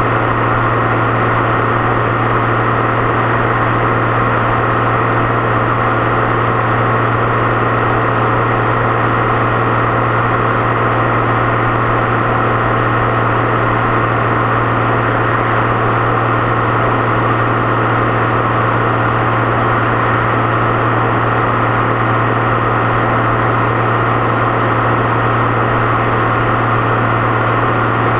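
Deutz-Fahr 6.61 tractor's turbocharged diesel engine running steadily on the road, a constant drone with no change in engine speed.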